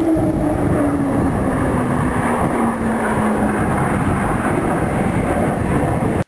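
Jet aircraft roaring past in flight, a loud steady rush with a tone that slides down in pitch over the first few seconds as it moves away.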